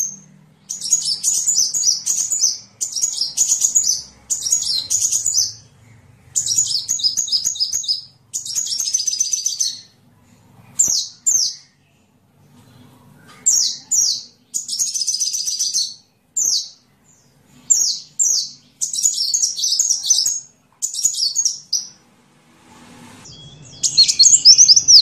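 Sunbird song: about a dozen short, very high, rapid chattering trills, each lasting about a second, with brief pauses between them.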